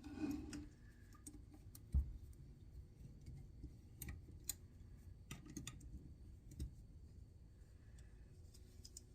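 Scattered light metal clicks and taps of a Torx driver and small screws being handled on a rifle stock's folding mechanism, with one sharper knock about two seconds in.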